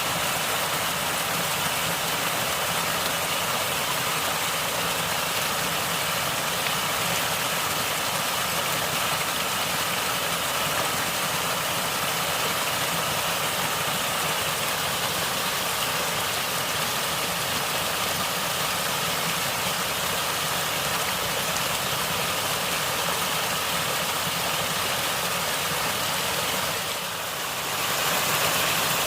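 Steady rushing and gurgling of flowing stream water, with a brief dip in level near the end before it carries on slightly louder.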